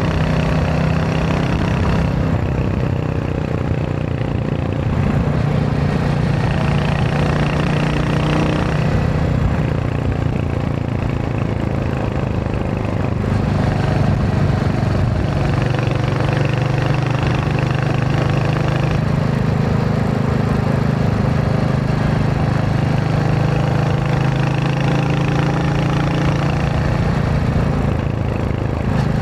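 Royal Enfield Hunter 350's single-cylinder engine running under way, its note steady but shifting in pitch a few times as the revs change, over constant road and wind noise.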